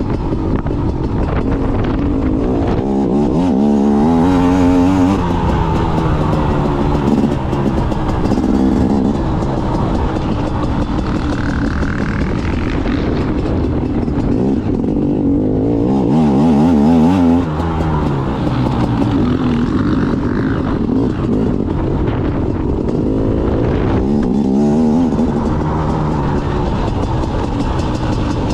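Off-road trail motorcycle engine being ridden hard around a dirt track, revving up and backing off again and again as the rider accelerates, jumps and corners.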